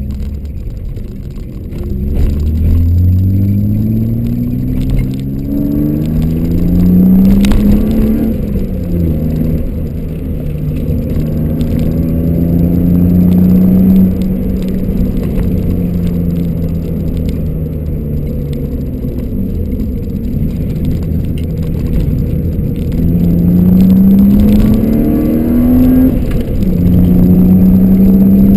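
In-cabin sound of a BMW E30 Touring's swapped-in M52B28 2.8-litre straight-six pulling away and accelerating through the gears. The engine note climbs and drops back at upshifts a few seconds apart, holds fairly steady for a stretch, then climbs again with another shift near the end.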